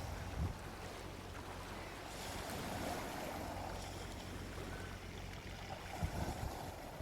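Gentle ocean waves washing on a beach: a steady surf hiss, with brief low thumps about half a second in and again near the end.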